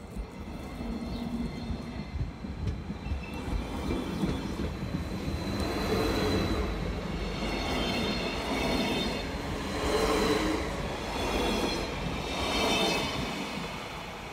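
Red SBB Stadler GTW regional train passing close by: the rumble of wheels on the rails builds about four seconds in and swells three times as the cars go past, with a high whine over it, then fades near the end.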